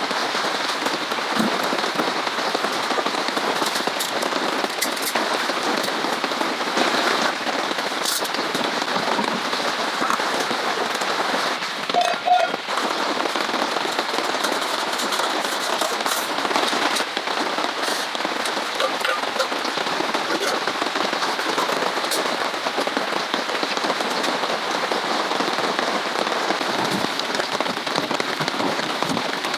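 Heavy rain falling steadily, a dense patter of drops with scattered sharper drop ticks. About halfway through, a brief, louder sound of some other kind cuts in.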